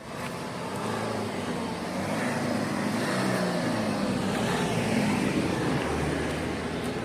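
A motor vehicle's engine running with road noise, steady and swelling slightly before easing off.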